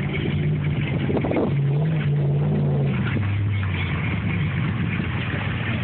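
Truck engine running steadily through deep floodwater. Its pitch drops about three seconds in as it eases off, under a steady hiss of water and wind noise.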